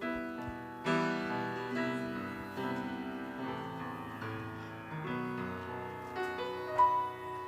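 Keyboard playing a slow instrumental introduction to a hymn: held chords that change every second or two, with a brief higher note near the end.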